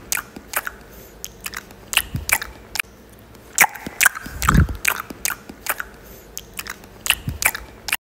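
Close-up mouth sounds of a person biting and chewing dried duck meat off the bone: irregular sharp, crunchy clicks and wet mouth noises, with a couple of duller thuds.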